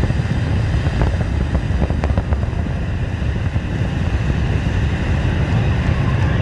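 Fireworks finale: a steady, dense low rumble of booms, with a few sharp crackles about one to two seconds in.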